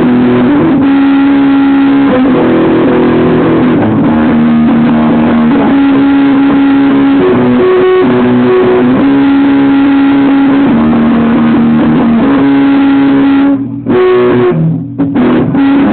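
Loud guitar music, with held notes that shift in pitch every second or two; the sound drops out briefly twice near the end.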